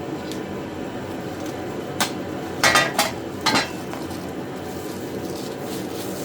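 Loose metal parts of a welding cart kit clinking and clanking as they are handled: one knock about two seconds in, then a quick cluster of clanks around the middle, over a steady background hum.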